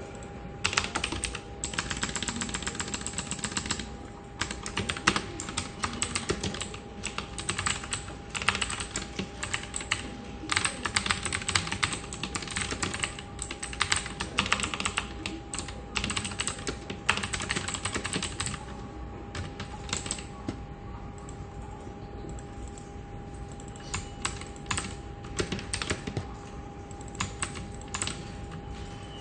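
Computer keyboard typing: dense runs of rapid clattering keystrokes that thin out to scattered single key presses for the last ten seconds or so. A steady faint hum runs underneath.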